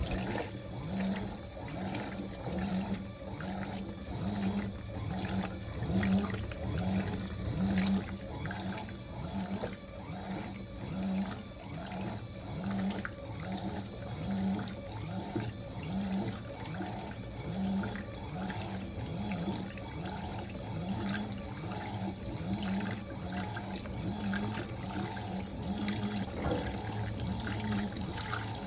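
Fisher & Paykel MW059NZ washing machine running early in its wash, with water pouring into the tub. A low hum pulses about once a second throughout. The sound starts suddenly, as the water comes on.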